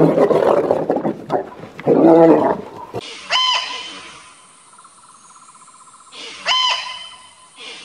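A large wild animal roaring and growling in loud, repeated bouts. About three seconds in it cuts to a bird giving two short, clear calls a few seconds apart, with a faint buzzing trill between them.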